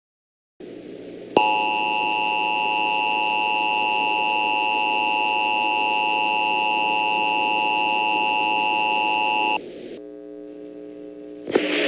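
Emergency Alert System attention signal: a steady, loud electronic two-tone alarm that holds for about eight seconds over faint radio hiss, then cuts off. Quieter hiss with faint tones follows, and a louder noisy sound begins near the end.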